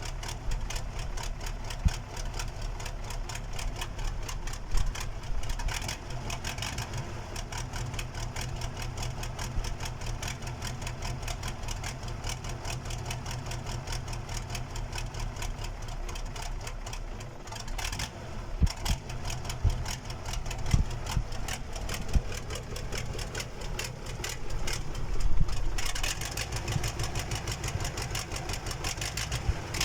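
Freshly overhauled KamAZ V8 diesel engine running on its first start after the rebuild, a steady fast clatter. It gives a few louder knocks in the middle and briefly gets louder about three-quarters through.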